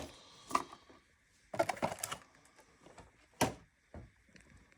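A few scattered clicks and knocks of small parts being handled, with one sharp click about three and a half seconds in.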